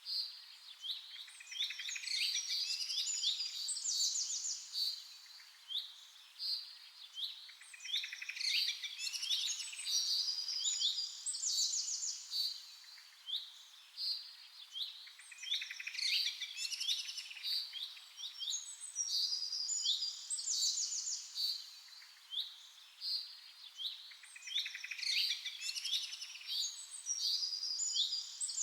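Birds chirping: many short, high chirps and quick trills, coming in clusters every few seconds.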